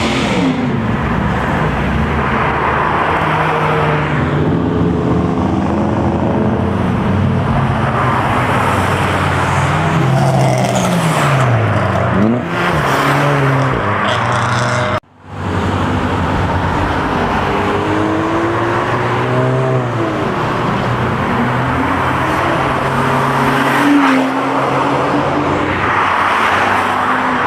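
Powerful cars revving and accelerating past one after another, with engine pitch climbing and falling through gear changes. There is a sudden break about halfway.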